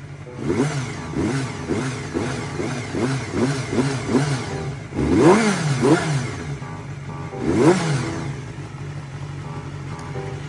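Honda Jade 250 inline-four motorcycle engine being blipped repeatedly, each rev rising and falling quickly, then revved high twice near the middle and towards the end.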